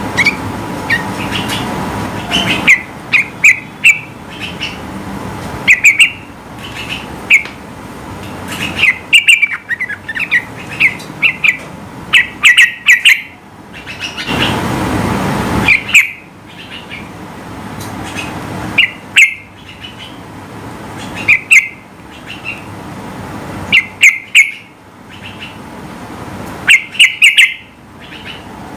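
Yellow-vented bulbul calling loudly in short, quick phrases that come in clusters every second or two, over a steady background hiss that swells briefly about halfway through.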